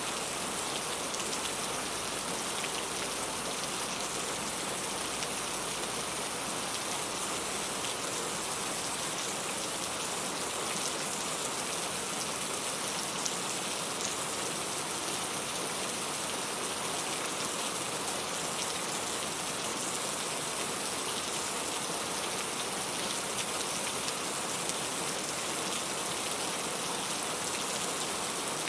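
Steady rain falling, a dense, even patter of drops with no change in strength.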